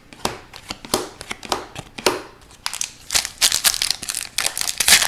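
Hockey trading cards handled by hand, with crinkling and rustling and small sharp ticks that grow denser and louder about three seconds in.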